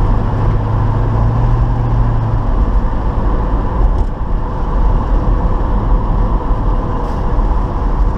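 A 1972 Chevy Nova's 350 V8 and road noise while driving at about 40 mph, with a steady low engine drone that drops away about two and a half seconds in.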